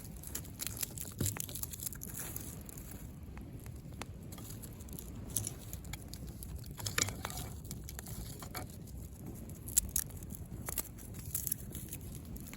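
Driftwood bonfire crackling, with frequent irregular sharp pops and snaps over a steady low rumble.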